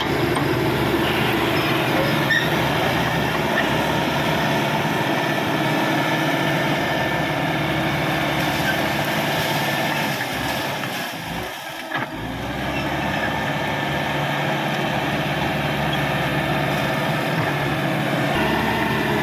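Caterpillar D5K XL bulldozer's diesel engine running steadily under work. The sound sags briefly about eleven seconds in and comes back with a sharp click near twelve seconds.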